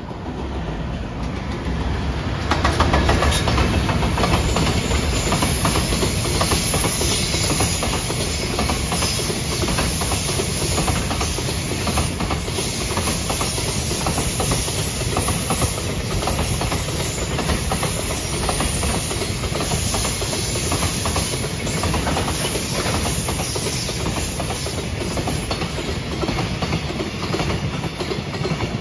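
Container freight train hauled by an electric locomotive passing close by. It grows louder over the first couple of seconds as the locomotive arrives, then the container wagons go by with a steady rumble and a dense clickety-clack of wheels over rail joints.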